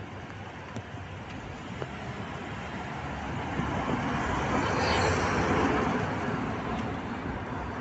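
Steady noise of rain with a vehicle passing on the wet road, its tyre hiss swelling to a peak about five seconds in and then fading.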